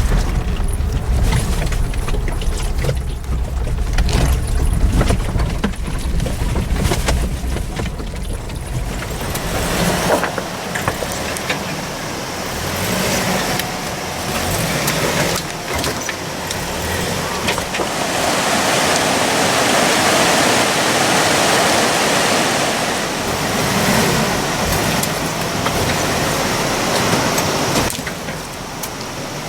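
Car driving, with a strong low rumble and scattered knocks for about the first ten seconds; then the rumble drops away and a steady rushing noise takes over, swelling about two-thirds of the way through.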